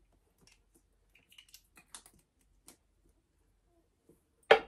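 Scattered small clicks and light rustling as small items are handled and taken out of a leather handbag, with one sharp, much louder click near the end.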